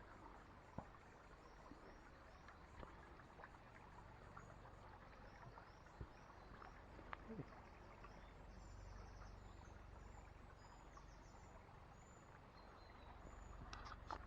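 Near silence: faint outdoor ambience with distant birds chirping and trilling now and then, and a few soft clicks.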